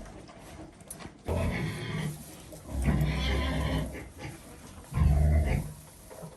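An animal calling three times, each call lasting just under a second.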